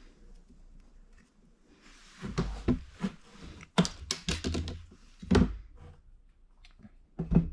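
A run of sharp clicks and knocks, several close together in the middle and one more near the end: a hydraulic bicycle brake hose being cut to length at its marked point, with the cutter and hose handled.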